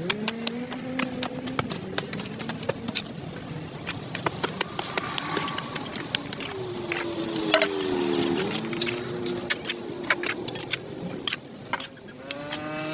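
Rapid irregular clicks and taps, with pigeons cooing three times: near the start, in the middle and near the end.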